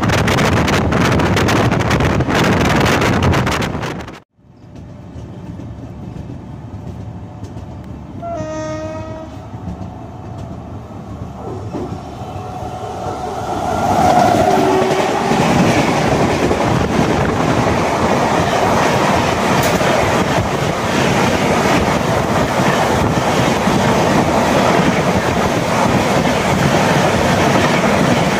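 Indian Railways train running: rushing wheel and wind noise that cuts off abruptly about four seconds in, followed by quieter running noise. A locomotive horn sounds once, briefly, and then an oncoming train passes on the adjacent track, a loud steady rush and clatter of its coaches going by to the end.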